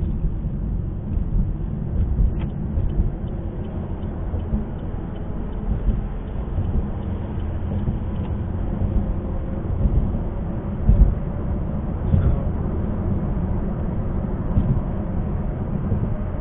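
Car driving on a highway: steady low rumble of road and engine noise.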